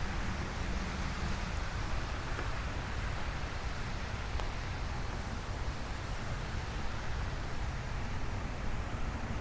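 Steady outdoor ambience: a low rumble under an even hiss, with no distinct events.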